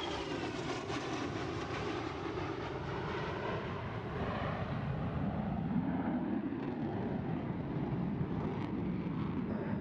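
Jet aircraft flying past: an engine whine that falls in pitch in the first second or so, then a steady jet rumble.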